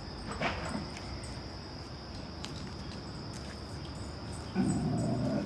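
Crickets trilling steadily in a high, even tone, with a louder low sound breaking in about the last second.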